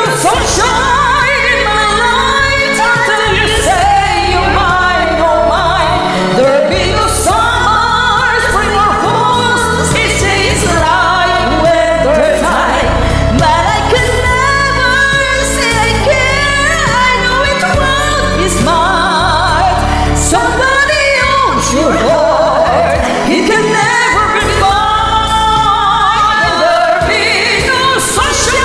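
Karaoke singing: a voice sings a pop song over a recorded backing track with a beat.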